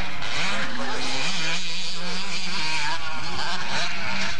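Several motocross bikes' engines running at once, their pitches rising and falling against each other as the riders open and close the throttle.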